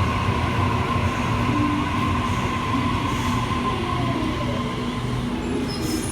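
Sydney Trains Waratah (A set) electric train pulling into an underground platform: steady rumble of the train with an electric whine whose pitch falls slowly as it slows.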